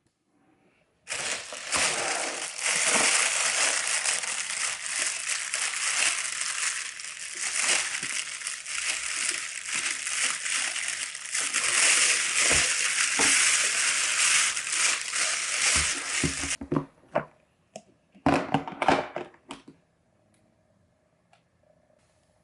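Beef sizzling in a hot pan: a dense, continuous crackle that starts abruptly about a second in and cuts off suddenly about sixteen seconds in, followed by a few short clatters.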